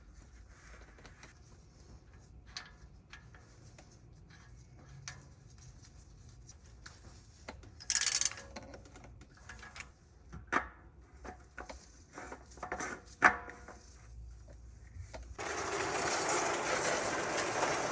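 Scattered clicks, light knocks and rubbing of tools and parts being handled, with a brief louder rush about halfway through and a steady rushing noise lasting about two and a half seconds near the end.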